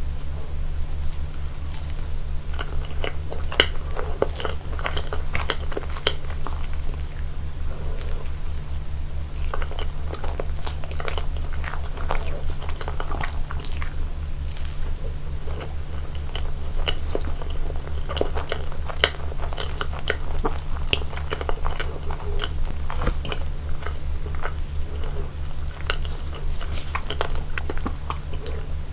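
Close-miked eating sounds of slice cake being bitten and chewed: bouts of wet chewing with many sharp little clicks and crackles. A steady low hum runs underneath.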